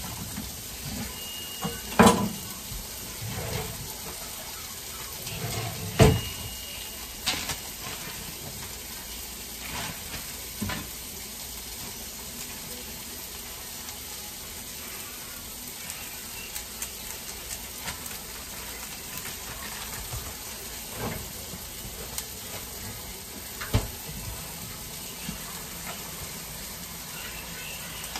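Sliced potatoes and onions frying in grease in pans, a steady sizzle, with a few sharp knocks of kitchen handling, the loudest about two and six seconds in.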